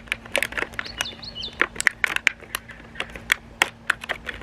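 Sharp knife cutting open the closed end of a new rubber handlebar grip, making irregular clicks and snaps.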